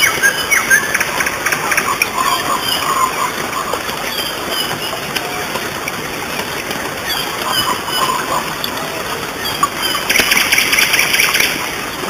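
Birds chirping, with many short rising and falling calls, over a steady background hiss; a fast, dense trill comes in about ten seconds in.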